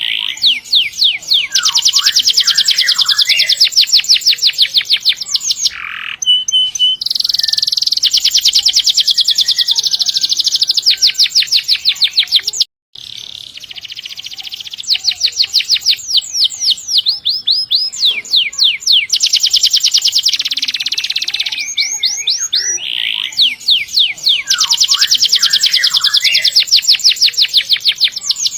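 Domestic canary singing vigorously in long rolling trills: fast runs of rapidly repeated high notes, several stretches each lasting a few seconds, with a brief break about halfway through.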